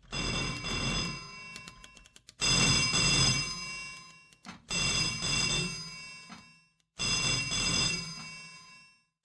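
An old-style telephone bell ringing: four rings about two and a half seconds apart, each starting sharply and fading away.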